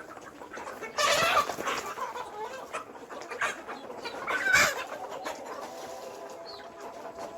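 Chickens clucking and calling, with two louder squawking calls about a second in and again about four and a half seconds in.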